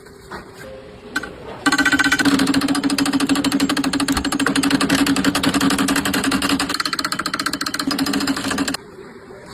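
A motor-driven workshop machine running with a rapid, even hammering rattle over a steady hum. It starts abruptly about two seconds in and cuts off suddenly near the end.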